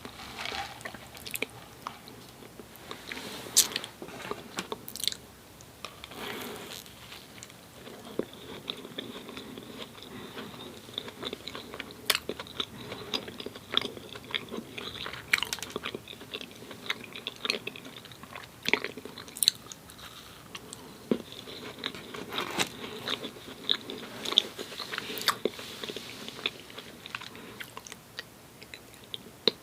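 Close-miked chewing of soft, sweet Krispy Kreme doughnuts, with frequent small sharp clicks and smacks.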